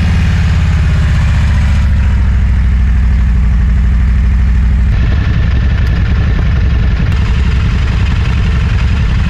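Motorcycle engine idling close to the microphone just after being started, a steady, evenly pulsing low note that shifts slightly about five seconds in.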